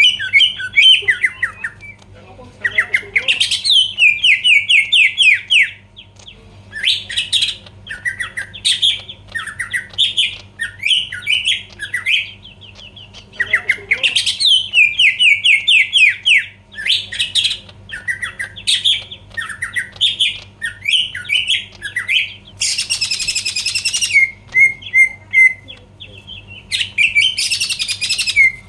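Green leafbird (cucak ijo) in full song: loud, rapid runs of sweeping whistled notes, broken by short pauses, with two harsh raspy bursts in the second half. A faint steady low hum runs beneath.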